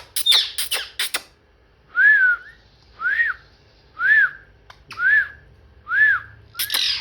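Pet parrot giving a few harsh squawks, then five short identical whistles, each rising and falling, about one a second.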